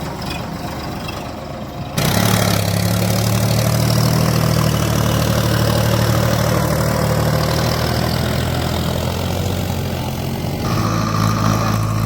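Tractor diesel engine running steadily at low revs. The sound changes abruptly about two seconds in and again near the end.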